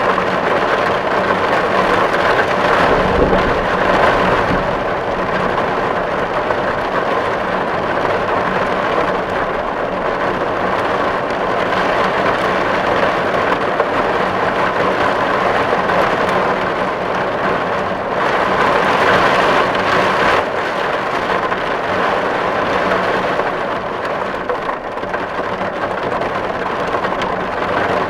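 Heavy rain drumming steadily on a tin roof, with a brief low rumble about three seconds in and a swell in intensity a little past the middle.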